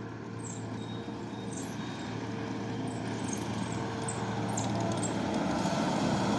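Skid steer engine running steadily under load, growing gradually louder.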